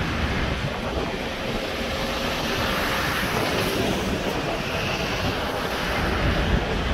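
Container wagons of a freight train rolling past, a steady rumble of steel wheels on rail, with wind on the microphone.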